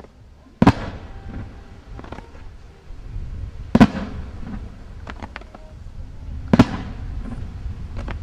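Firework going off shot after shot, with three loud bangs about three seconds apart and lighter pops and cracks between them.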